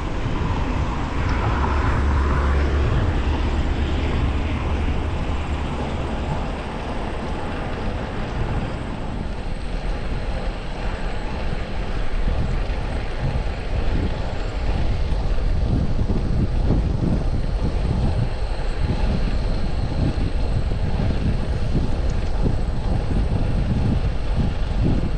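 Wind rushing and buffeting over the microphone of a camera on a moving bicycle, as a steady noise with gusty low rumble. It swells briefly a couple of seconds in.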